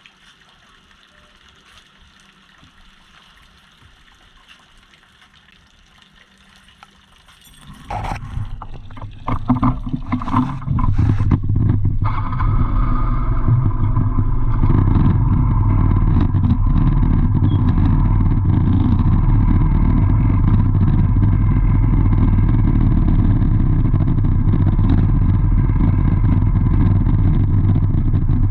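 Low background hiss for the first several seconds, then a motor vehicle engine comes in loudly with some clatter about a quarter of the way in and runs steadily after that.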